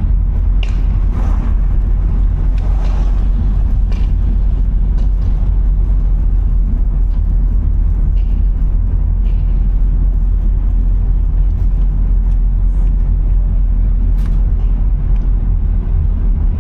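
A car driving, a steady low rumble of engine and tyres on the road, with a few faint clicks and swishes about a second in, near four seconds and again near the end.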